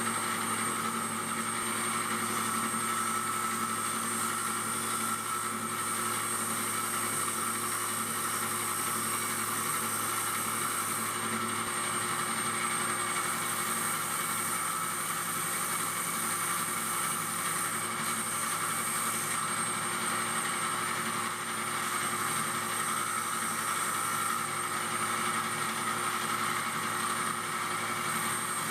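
Electric disc grinder running steadily with a constant motor hum and whine, while a Koa wood handle is ground against the disc. The grinding hiss comes and goes every few seconds as the wood is pressed on and lifted off.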